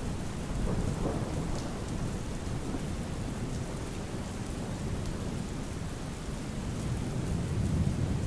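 Rain-and-thunderstorm ambience: steady rain with a continuous low rumble of thunder.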